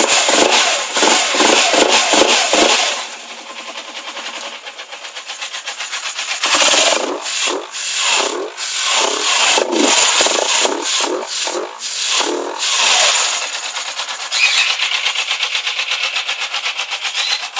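Suzuki GS500 parallel-twin engine, cold, breathing through a K&N lunchbox air filter with the standard exhaust: the throttle is blipped in a quick string of revs, it drops back to idle, then gets another string of about eight short revs before settling into a steady idle near the end.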